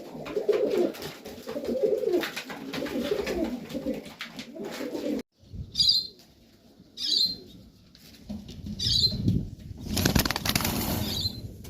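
Domestic pigeons cooing for the first five seconds. Then the sound cuts off abruptly, three short sharp sounds follow about a second apart, and a pigeon's wings flap for about a second near the end.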